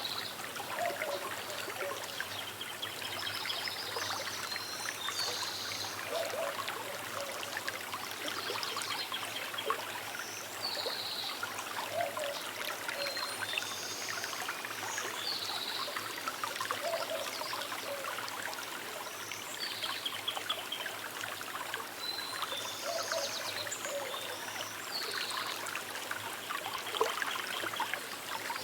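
A small river trickling and babbling steadily, with birds chirping now and then.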